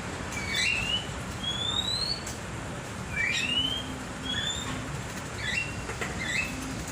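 Cage birds whistling: a string of short, clear whistled notes, most of them sweeping upward in pitch, with one longer rising whistle about two seconds in.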